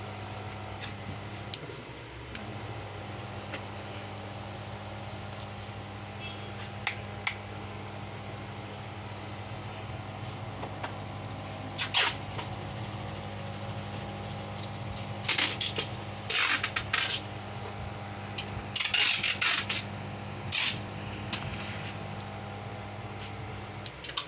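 Small electric Sui-gas booster pump compressor (TX-2000G) running with a steady hum, which stops at the very end. Sharp clicks and knocks sound over it, a few singly and then in clusters in the second half.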